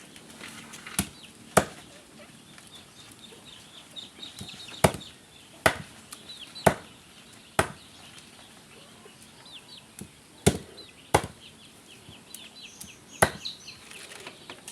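A cleaver chopping duck meat: about nine single, sharp blows at uneven gaps of one to three seconds. Chickens cheep faintly in the background.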